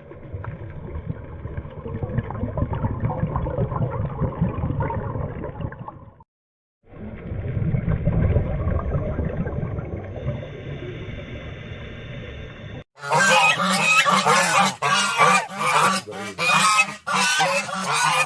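Geese honking loudly in rapid, repeated calls, starting about two-thirds of the way in. Before that come two stretches of a low, dense rumbling sound, broken by a short gap about six seconds in.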